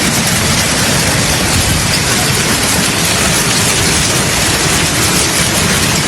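Storm footage audio: heavy precipitation pelting down in a loud, steady hiss without a break.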